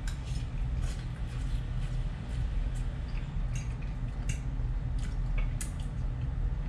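A person chewing a mouthful of buttered spaghetti, with a few faint clicks of a fork against the bowl, over a steady low hum.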